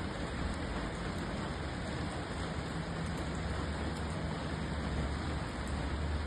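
Steady rain: an even hiss with a few faint drop ticks and a low rumble underneath.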